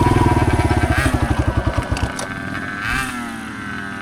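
Dirt bike engine running with an even beat that slows and fades away about two seconds in.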